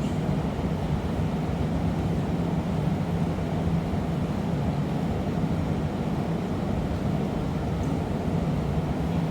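Steady roar of a glassblowing workshop's gas-fired furnace, a low, even rumble with no break.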